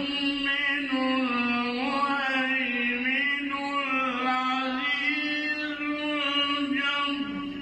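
Male Quran reciter chanting in melodic tajwid style, one voice holding long, ornamented notes that waver up and down. The phrase dips in pitch and fades just at the end.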